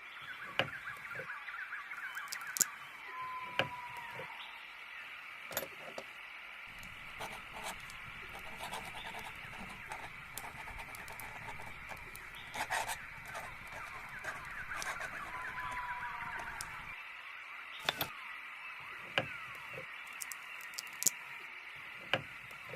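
Layered ambience of birds chirping steadily, with scattered small sharp clicks and taps and two short whistled notes a few seconds in and again past the middle.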